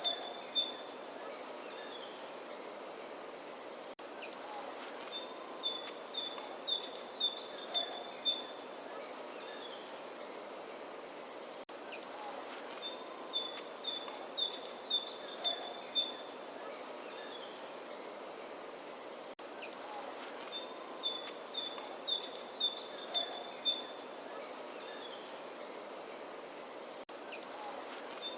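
Songbird singing, the same phrase returning about every eight seconds, four times: a few high notes dropping in pitch, then a quick run of short repeated notes alternating between two pitches. A steady outdoor hiss lies underneath.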